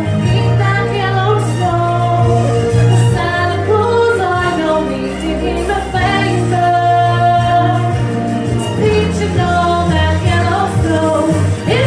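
Live music with a singer holding long, wavering notes over a steady low bass line.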